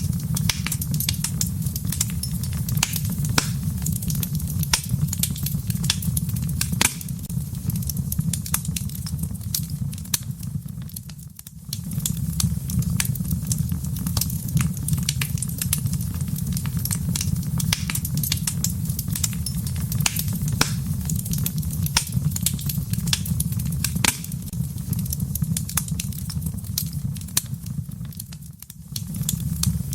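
Wood fire burning in a fireplace: frequent sharp crackles and pops over a steady low rumble of the flames, which dips briefly twice.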